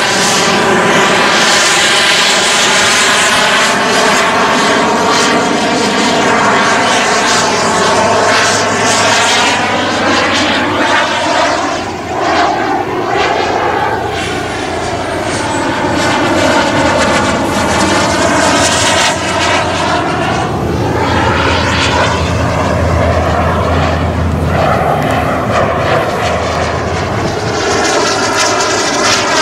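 Model jet turbine engines of a 1/6-scale Su-30SM RC jet running steadily in flight. The tone sweeps up and down several times as the aircraft passes back and forth, with a short dip in loudness about midway.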